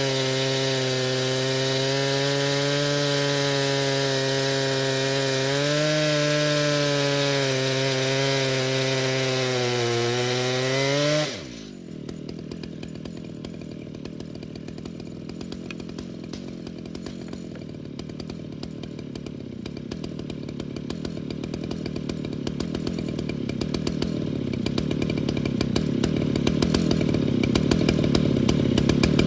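Stihl MS 881 chainsaw on an Alaskan mill running at full throttle, ripping along a hemlock log. About eleven seconds in the throttle is released and the revs drop suddenly. The engine then runs at low revs, growing gradually louder toward the end.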